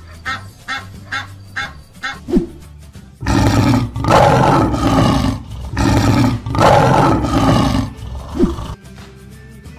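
Animated goose honking in short repeated calls, then a brief rising swoosh and a lion roaring loudly again and again for about five seconds, over background music.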